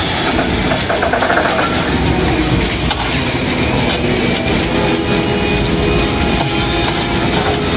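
Loud, steady rumble of a running train, the railway sound effect of a dark ride's show soundtrack.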